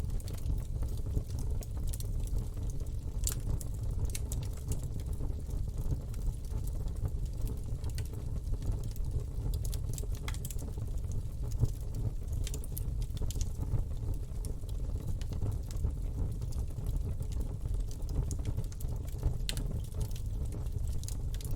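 Campfire burning: irregular sharp crackles and pops over a steady low rumble of flames.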